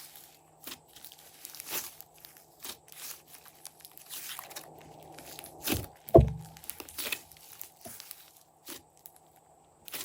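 Glossy slime being handled and mixed, giving irregular crackling pops and clicks, with one loud thud about six seconds in.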